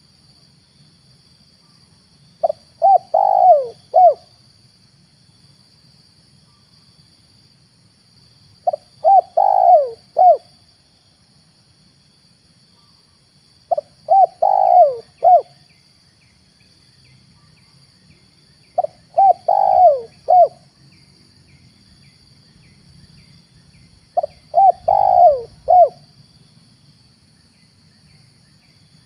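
Spotted dove (tekukur) cooing: five phrases of several notes each, about five seconds apart. It is a lure call for drawing in wild spotted doves. A faint steady high tone runs underneath.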